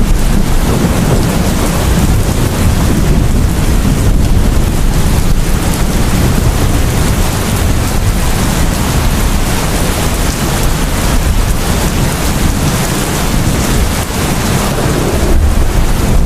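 Heavy rain pouring steadily, a dense hiss of falling water with a constant deep rumble underneath.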